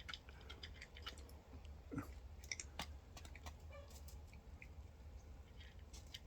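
Cat giving a brief low falling growl about two seconds in, amid faint scattered clicks and scuffs during its standoff with a chicken.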